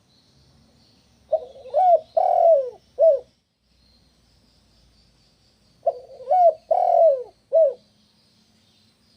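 Spotted dove (tekukur) cooing: two phrases of four coos each, the second starting about four and a half seconds after the first.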